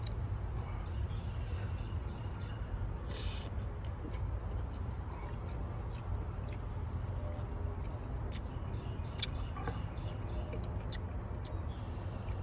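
A person chewing food, with scattered small clicks and mouth noises, over a steady low hum.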